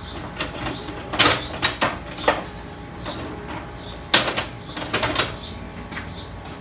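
A series of sharp metallic clicks and knocks as hydraulic pump parts and hand tools are picked up and set down during the teardown. They come in two clusters, a few taps each.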